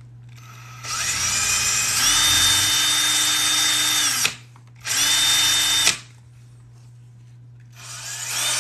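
Electric drill boring a rivet hole through layered, glued leather, run in bursts: it spins up about a second in and runs steadily for about three seconds, runs again briefly, then starts once more near the end.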